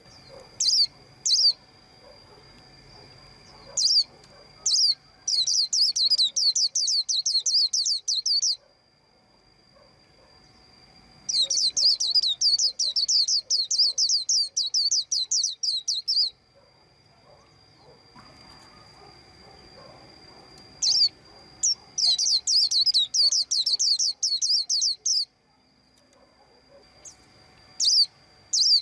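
White-eye chirping: single high chirps, then three long runs of rapid chirps, each lasting about three to five seconds.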